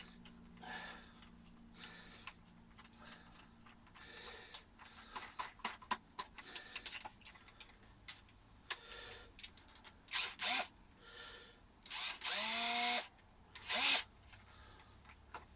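Power drill run in three short bursts, the motor spinning up with a rising whine on the longest, after some clicks and handling noise.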